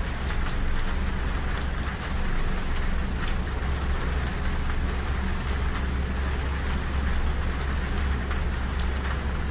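Rain falling on a train window, with scattered sharp drop ticks, over the steady low rumble of a moving train.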